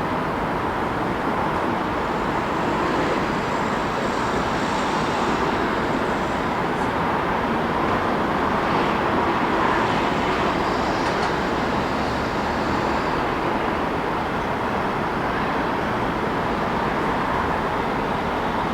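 City road traffic: a steady wash of passing vehicles that swells a little around the middle.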